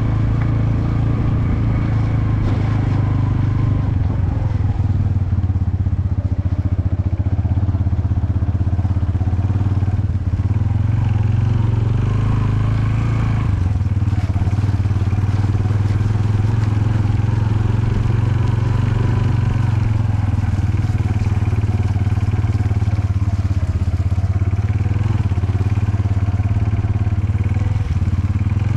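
Engine and road noise of a moving vehicle heard from on board: a steady low drone.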